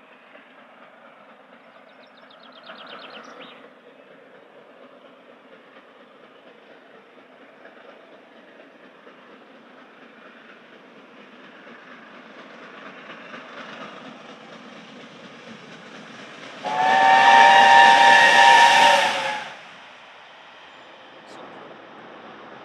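Steam locomotive whistle sounding one long blast of about three seconds, several notes at once, over the steady rumble and hiss of a passing steam train.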